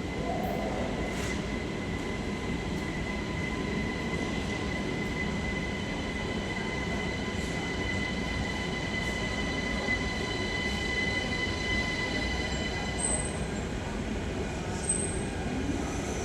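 A train running at the platform: a steady low rumble with a high, steady whine over it that fades out near the end.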